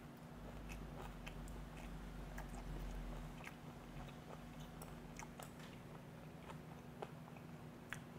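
Faint, close-miked chewing of a mouthful of fermented skate sushi, with scattered small mouth clicks over a steady low hum.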